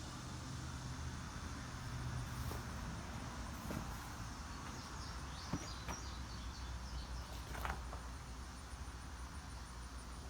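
Quiet outdoor background with a steady low hum and faint insect chirping, a few high chirps in the middle, and two sharp knocks a couple of seconds apart.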